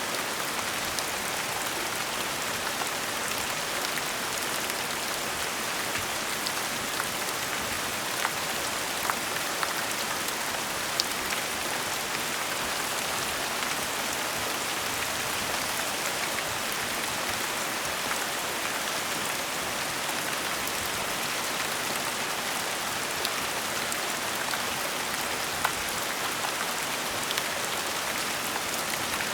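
Gentle rain falling steadily, a continuous hiss with many scattered individual drops pattering on surfaces.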